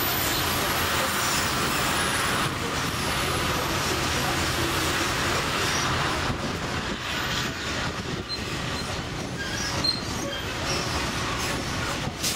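St. Kitts Scenic Railway narrow-gauge train running along its track, heard from an open-deck passenger car: a steady rumble and rattle of wheels on rails. The noise eases a little about halfway through, and there is one sharp knock near the end.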